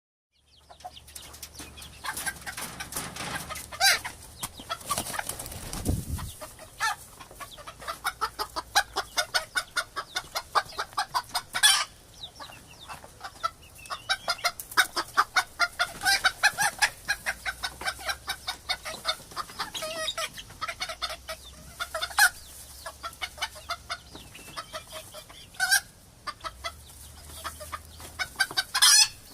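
Chickens clucking in a flock, a dense run of rapid clucks with several louder sharp squawks standing out. A low tone slides downward about five to six seconds in.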